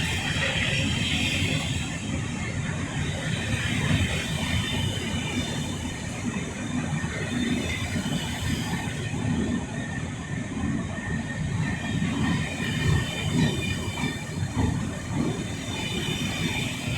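A train moving through the station with a steady low rumble and high-pitched wheel squeal, strongest in the first couple of seconds.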